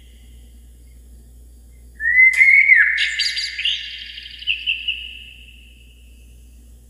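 A bird calling once, about two seconds in: a short rising note and then a quick run of higher notes that fade away with a long echoing tail.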